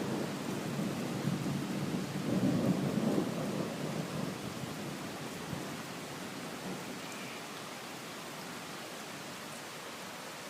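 Thunder rumbling and rolling, swelling a couple of seconds in and then dying away, over the steady hiss of heavy rain.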